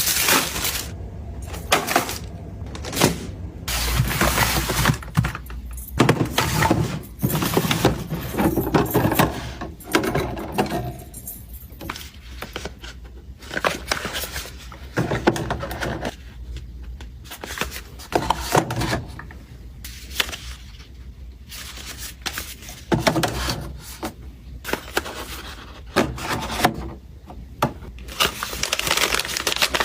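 Small household items being handled and put away: irregular clacks, taps and knocks of objects set down, mixed with short bursts of rustling and scraping.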